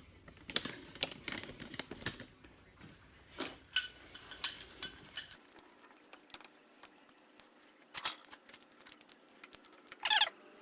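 Scattered light clicks and metal knocks of clamps being handled and tightened onto a freshly epoxied wooden knife handle, sharpest about four and eight seconds in.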